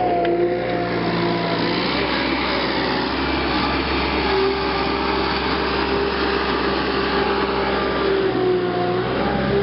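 Electric power tool with a wire brush wheel scouring a steel rim from a 1953 Massey-Harris Pony tractor to clean it up: a steady motor whine over a harsh scratching hiss, the pitch sagging and recovering as the brush is pressed into the metal.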